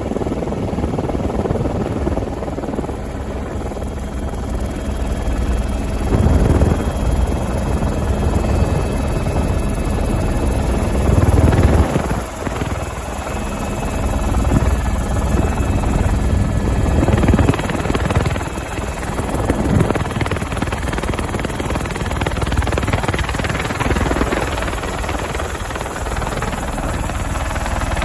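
Helicopter running steadily, a continuous rotor and engine noise that swells and eases.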